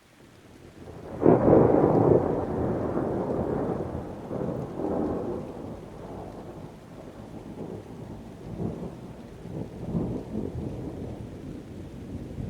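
Thunder: a rumble builds out of near silence, breaks into a loud clap about a second in, then rolls on and slowly fades, swelling again several times.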